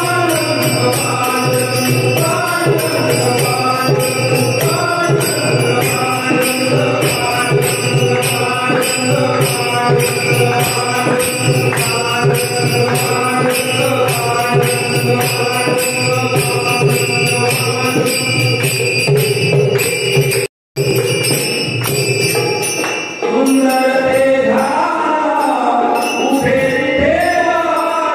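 Marathi devotional bhajan music: held notes over a steady jingling beat. The sound cuts out briefly about 21 seconds in, and a singing voice carries a bending melody over the last few seconds.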